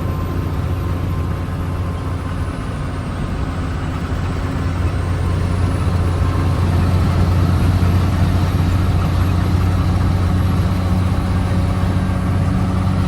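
Engine and road noise of a moving vehicle, heard from inside the cab: a steady low drone with wind and tyre hiss over it, getting a little louder about halfway through.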